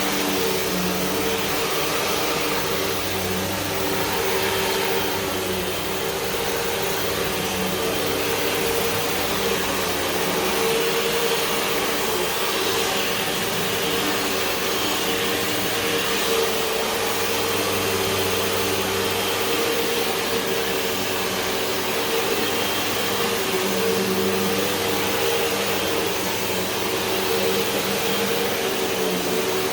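Hoover WindTunnel 2 Whole House Rewind upright vacuum running steadily while vacuuming carpet: a continuous motor hum and whine whose low end swells and fades gently with the strokes.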